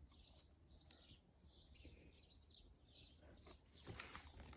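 Faint bird chirps, a quick run of short high calls, over near silence. A few soft clicks come near the end.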